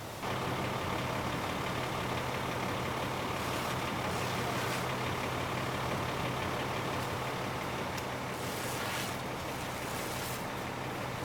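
Fire apparatus diesel engine running steadily, with a few short hisses over it around the middle and near the end.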